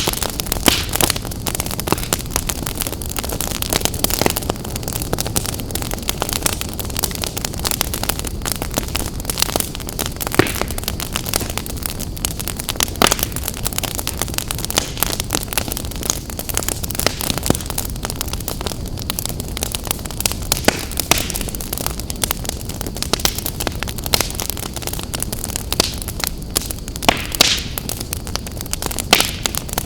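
Wood fire burning in a fireplace: a steady low rumble and hiss with frequent, irregular sharp crackles and pops.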